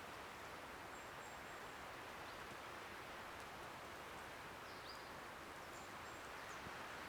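Faint, steady outdoor hiss with a few brief, high chirps.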